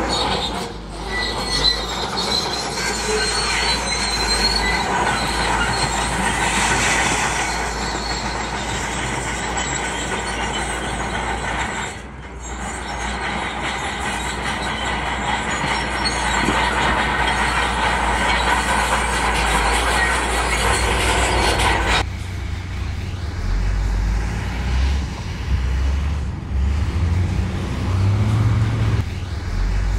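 Steel tracks of a crawler bulldozer squealing and clanking as it moves, over its diesel engine. About 22 seconds in the squeal stops and only the low engine rumble is left.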